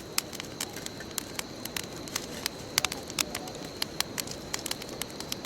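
Wood bonfire crackling, with irregular sharp pops over a steady low hiss of burning. A faint, steady high-pitched whine runs underneath.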